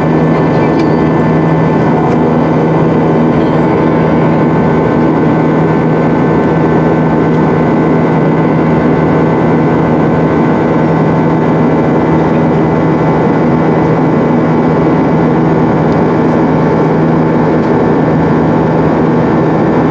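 Steady drone of an Airbus A320's IAE V2500 jet engines heard inside the passenger cabin: an even rushing noise with several steady tones over it.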